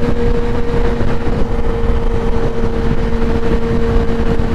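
Kawasaki ZX-10R's inline-four engine with a Graves race exhaust running at a steady cruising speed, holding an even note, under heavy low wind rumble on the helmet-mounted microphone.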